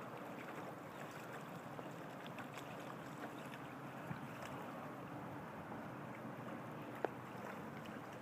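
Steady rush of water along the hull of a small sailboat under way, with a few light ticks and one sharp click about seven seconds in.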